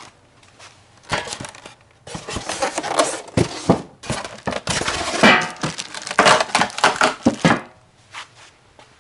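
Packaging being handled and pulled apart: crinkling plastic wrap and cardboard, with sharp crackles and tearing, from about a second in until it stops near the end.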